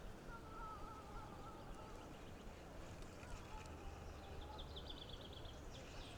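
Faint outdoor ambience with birdsong: a thin wavering whistle early on, then a rapid ticking trill, over a low steady rumble.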